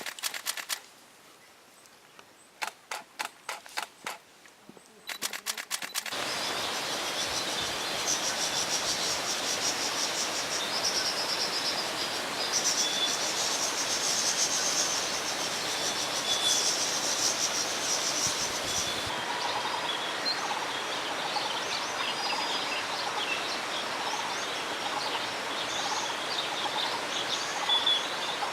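Wild birds calling repeatedly over a steady rushing background noise. The noise and calls begin about six seconds in, after three short bursts of rapid clicking.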